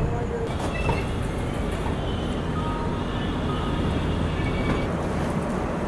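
Passenger train rolling slowly alongside a station platform: a steady low rumble with faint background noise from the platform.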